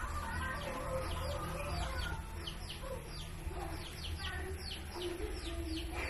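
Birds chirping: a steady run of short peeps falling in pitch, several a second, over lower clucking calls and a low hum.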